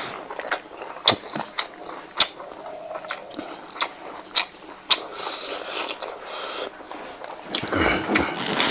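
Close-miked chewing of rice and fatty fried pork belly, with a string of sharp wet mouth smacks and a louder stretch of chewing near the end.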